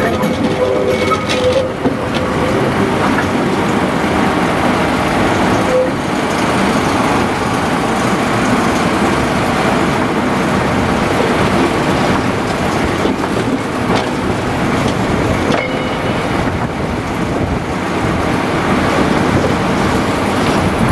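Small diesel shunting locomotive and the wagon coupled to it running slowly along the track, the engine running steadily under the rumble and clatter of the wheels on the rails.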